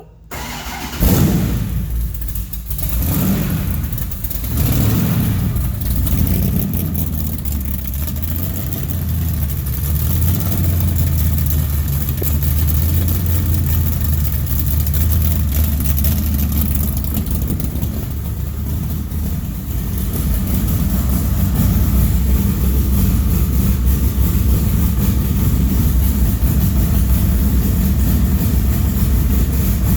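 LS3 stroker V8 in a Tatum SandDemon sand rail starting about a second in on a true cold start under a freshly flashed base tune, running unevenly for a few seconds, then settling into a steady idle that rises a little about twenty seconds in.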